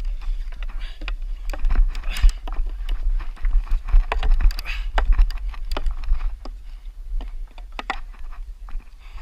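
Footsteps of someone moving at a run, landing irregularly about two or three times a second, with a constant wind or handling rumble on the microphone.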